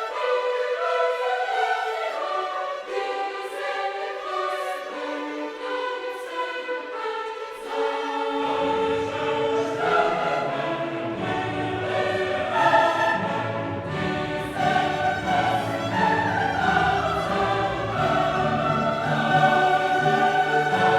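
Classical orchestral music with a choir singing; the deep bass of the orchestra comes in about eight seconds in.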